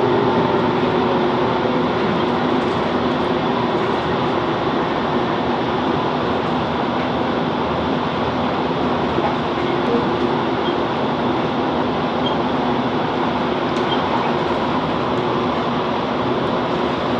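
Class 165 Networker Turbo diesel multiple unit heard from inside the carriage while running: a steady rumble of the underfloor diesel engine and wheels on the rails, with a faint hum.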